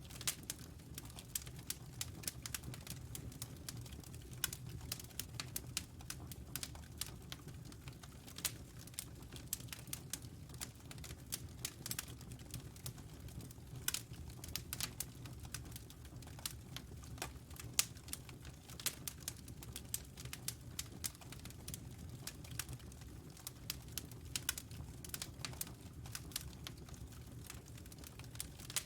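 Wood fire burning in a fireplace: a low steady rumble of flames with frequent irregular sharp crackles and pops, a few of them louder than the rest.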